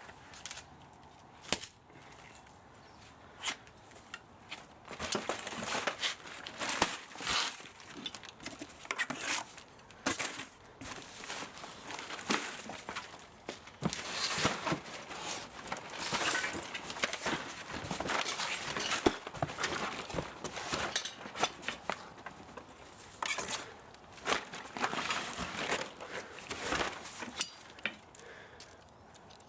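Hand work on scrap electric-motor parts: irregular clicks, scrapes and crinkling, sparse at first and busier from about five seconds in.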